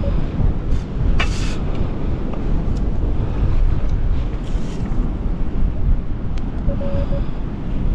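Strong wind buffeting the microphone, a loud steady low rumble throughout. A short hiss comes about a second in, and a metal detector's steady beep tone sounds briefly near the end.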